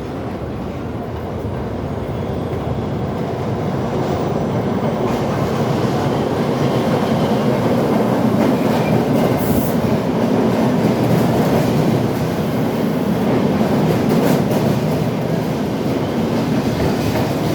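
New York City Subway R68 train running on the rails, a steady rumble with wheel clatter that grows louder over the first few seconds. There are scattered sharp clicks from the track.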